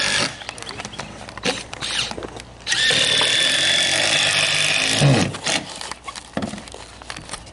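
Power drill driving a screw into roof decking: a steady motor whine that stops just after the start, then a second run of about two and a half seconds that winds down with a falling pitch, with a few light knocks between and after.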